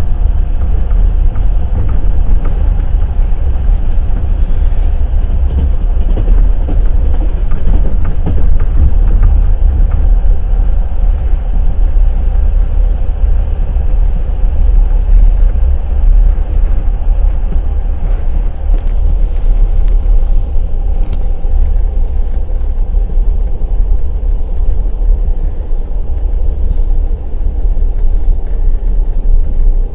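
Wheels of a passenger express train clattering on the rails at speed over a loud, steady low rumble.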